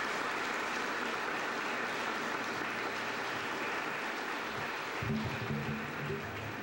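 Audience applauding in a hall after a speech ends. About five seconds in, low instrumental music comes in under the applause.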